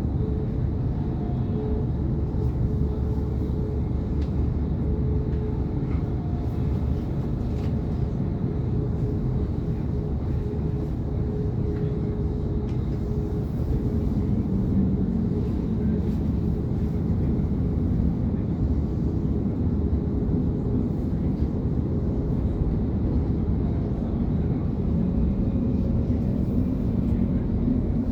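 S-Bahn electric train running steadily, a continuous low rumble with a faint humming tone that shifts lower about halfway through.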